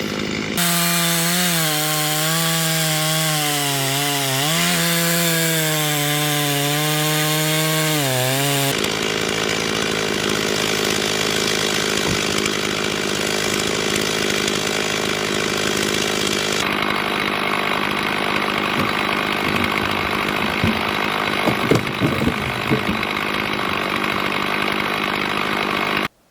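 Gas chainsaw running at high revs with a steady pitched whine that dips twice in the first nine seconds. It then turns to a rougher, noisier cutting sound as it saws through firewood logs, and cuts off suddenly near the end.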